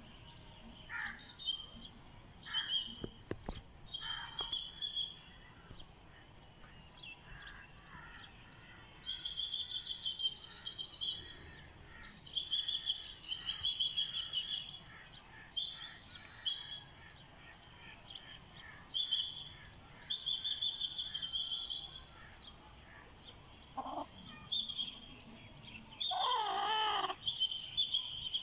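Birds chirping: short high trills repeating every second or two, with a louder wavering call near the end.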